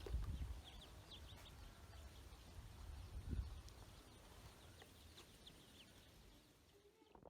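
Ducklings peeping: many short, high, downward-sliding peeps scattered throughout, with low rumbling bumps near the start and about three seconds in.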